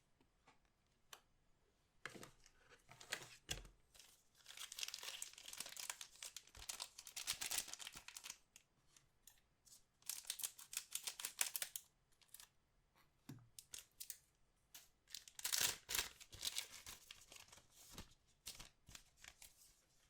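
Trading-card booster packs being torn open, the foil wrappers crinkling. There are three bouts of crinkling, with small clicks and taps of cards being handled between them.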